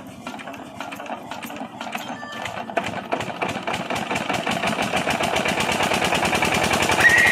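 8 hp single-cylinder diesel pumpset engine starting up: slow, separate strokes that quicken and grow steadily louder as it fires and picks up speed.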